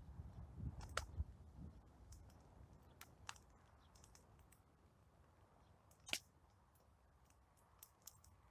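Wood campfire crackling: scattered sharp pops and snaps, the loudest about six seconds in, over a low rumble that fades after the first second or two.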